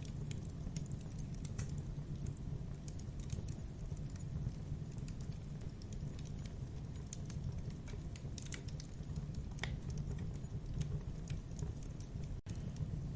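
Campfire burning: a steady low rumble of flames with scattered sharp crackles and pops of burning wood. The sound drops out for an instant near the end.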